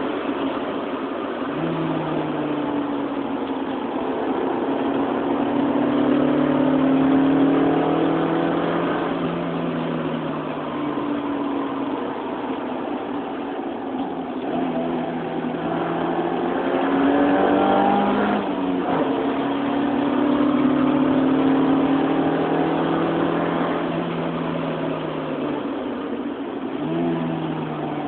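Honda Civic LSi engine heard from inside the cabin, driven hard on track: its note climbs with the revs and drops back several times as it accelerates and changes gear.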